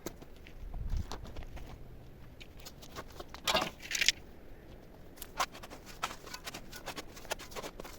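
Hand work with sticks and stones: scattered knocks and clicks, a low thump about a second in, and two short scraping rustles a little past the middle.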